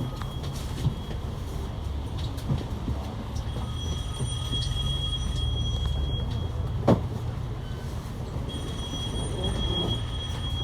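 Ride noise inside a moving bus: a steady low engine and road rumble, with a thin high whine coming in twice and a single sharp knock about seven seconds in.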